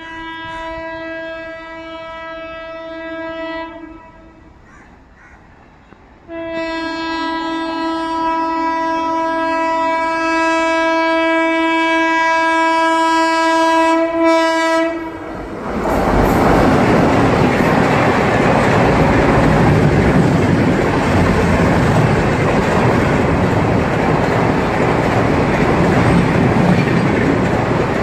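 A WAP-7 electric locomotive sounds its horn in two long blasts on one steady pitch: the first lasts about four seconds, and the second starts about six seconds in and lasts about nine. At about sixteen seconds the train reaches the spot and passes at speed, and the LHB coaches make a loud, steady rush of wheels on rail.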